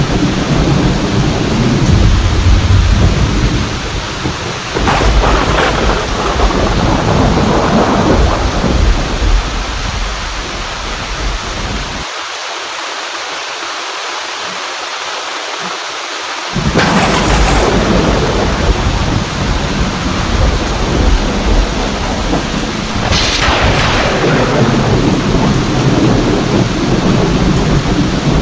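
Thunderstorm: steady heavy rain with rolling thunder. Three sharp thunderclaps come about 5, 17 and 23 seconds in, and the low rumble drops out for a few seconds midway.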